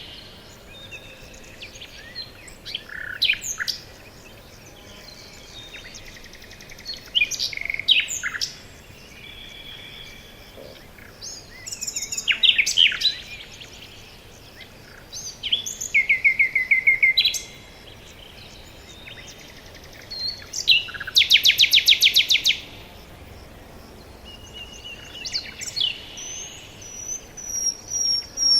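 Several songbirds singing, a short phrase every few seconds with quiet gaps between. One song is a fast trill of rapidly repeated notes.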